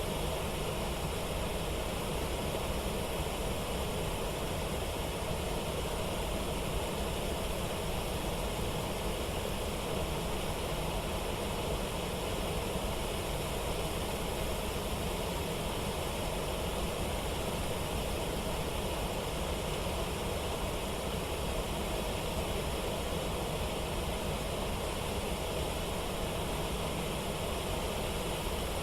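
Steady rushing of water over a waterfall and rapids, an even, unbroken wash of noise with no changes.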